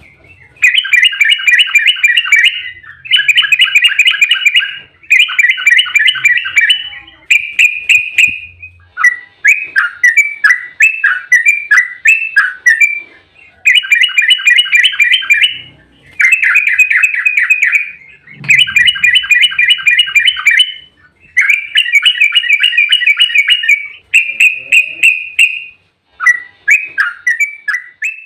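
Yellow-vented bulbul (trucuk) singing its fast rolling 'ropel' song: repeated phrases, each a dense run of quick chattering notes lasting one to two seconds, with short pauses between them. Around the middle and again near the end come looser runs of downward-slurred notes.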